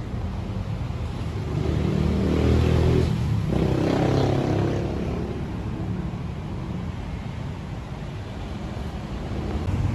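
A motor vehicle running over a steady low rumble. It swells louder for a few seconds shortly after the start, like a vehicle passing close by, then eases off.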